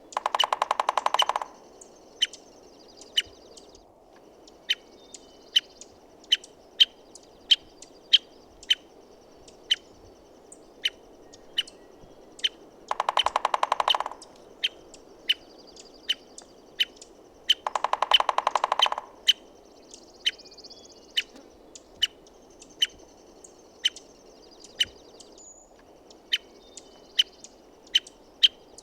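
American three-toed woodpecker giving sharp, short call notes about once a second, broken by three bursts of rapid drumming about a second and a half each.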